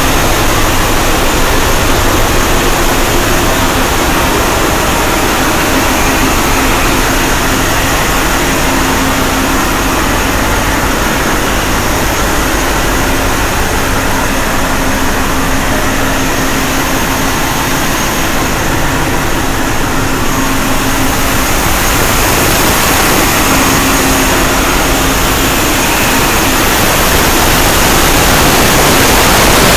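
Machinery in a passenger ship's engine room running: a loud, steady drone with a constant hum.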